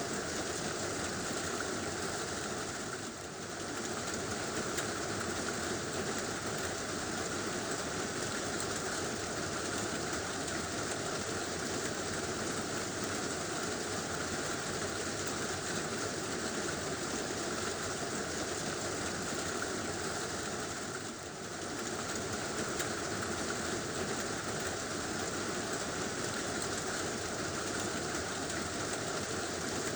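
Heavy rain drumming steadily on a tin roof, a dense, even wash of sound that dips briefly twice, about three seconds in and about two-thirds of the way through.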